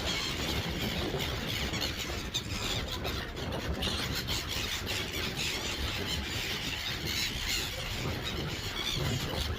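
A flock of gulls calling, many cries overlapping without a break, over a steady low rumble.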